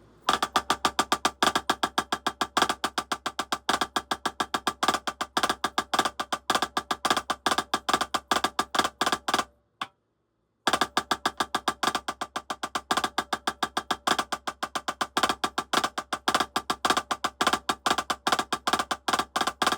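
Drumsticks playing a fast, even run of single strokes with regularly recurring louder accents: a single-stroke exercise built around hertas (single-stroke threes). The playing breaks off for about a second near the middle, then resumes at the same pace.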